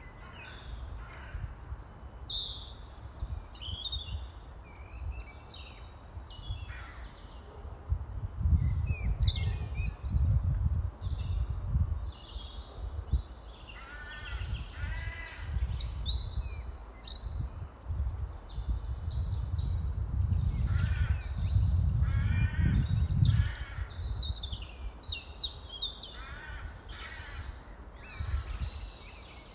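Many birds chirping and calling, with a low rumble that comes and goes beneath them and swells twice to its loudest.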